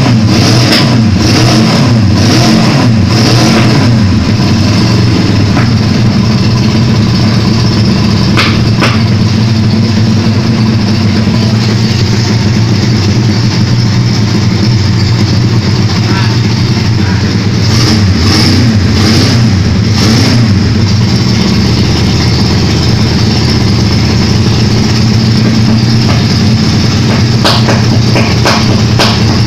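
Custom four-cylinder engine running loud and steady while being tuned, with a few brief sharper bursts along the way.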